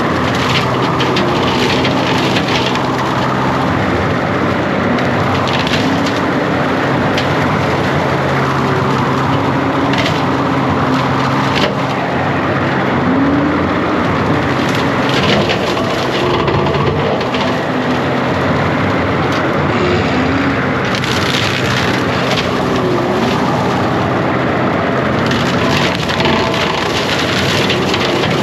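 John Deere 333G compact track loader's diesel engine running under load, its pitch wavering now and then, with branches and brush cracking and splintering as its cutting attachment clears growth.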